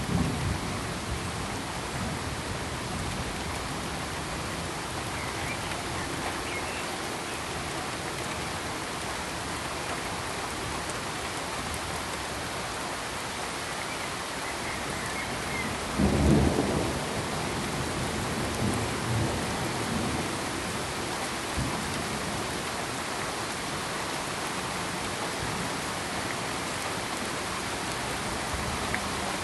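Steady hiss of rain with a low thunder rumble that swells about sixteen seconds in and dies away over the next few seconds; a smaller rumble comes right at the start.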